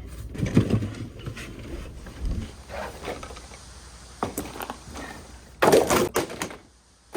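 Scattered knocks, clicks and clunks of objects being moved about and handled, with a louder clatter about six seconds in.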